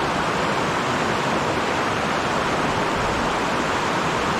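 Rushing water of a mountain headwater stream: a steady, even hiss of running water.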